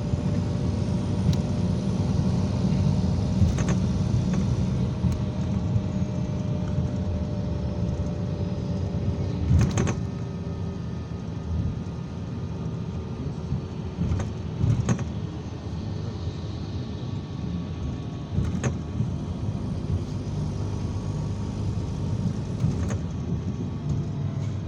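Interior of an IVECO Crossway 13M PRO city bus under way: a steady low rumble of engine and road, with several short knocks and rattles from the body.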